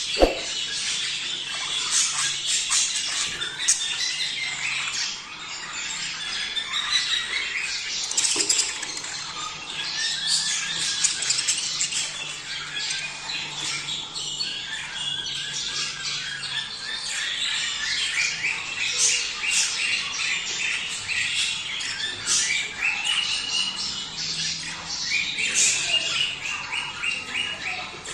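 A flock of budgerigars chattering, warbling and squawking at once: their mating chatter, with many overlapping chirps and runs of quick repeated notes.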